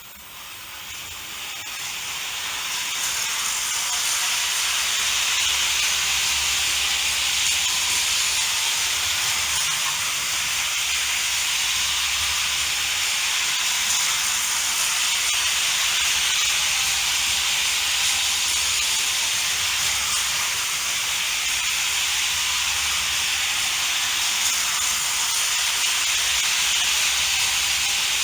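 Märklin HO model train, an NS class 700 diesel switcher with freight cars, running on metal C Track: a steady hissing whir of the wheels and small motor, growing louder over the first few seconds and then holding even.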